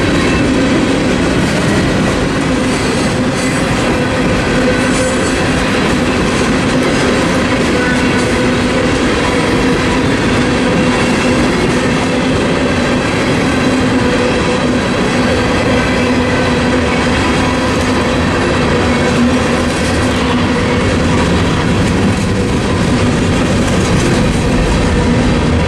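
Freight train's tank cars and covered hoppers rolling steadily past: a continuous rumble and clatter of steel wheels on the rails, unbroken throughout.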